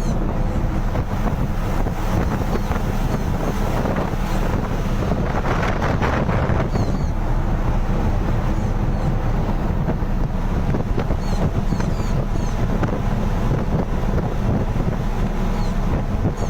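Wind buffeting the microphone: a steady, loud low rumble with a gustier swell about six seconds in. Faint short high chirps come through a few times near the end.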